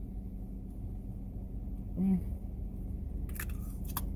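A steady low hum, with a woman's brief hummed "mm" about halfway through and a few sharp crackles near the end.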